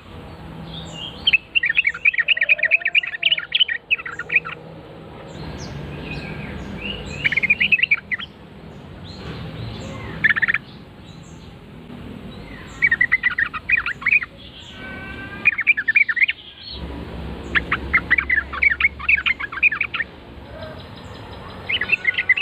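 Yellow-vented bulbul (trucukan) song: about seven bursts of rapid, bubbling chattering notes, each a second or two long, with short pauses between them.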